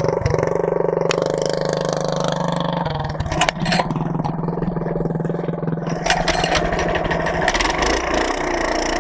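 Minibike engine running steadily, with a couple of sharp knocks about three and a half seconds in.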